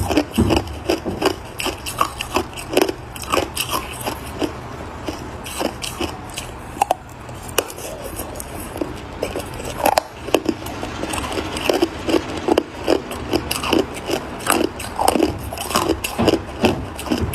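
Ice being bitten and chewed close to the microphone: a quick, irregular run of crunches that thins out about six to nine seconds in, then picks up again.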